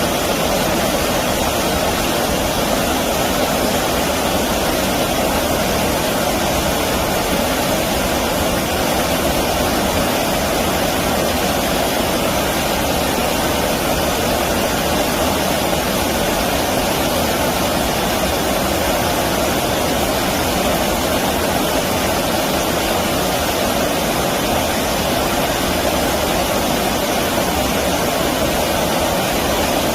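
Flowing stream water rushing steadily, a constant even rush with no breaks.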